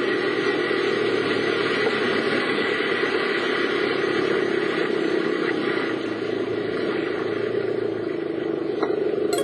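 Steady engine and road noise of a car being driven, with a sharp click near the end.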